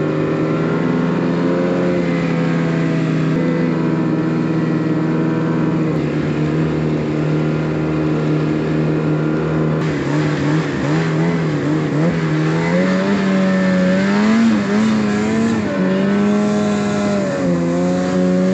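Snowmobile engine running steadily under load, its pitch climbing about ten seconds in and holding higher near the end.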